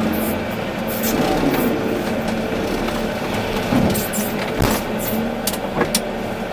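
Volvo EC380D excavator's diesel engine running steadily, with several sharp knocks about halfway through and again near the end.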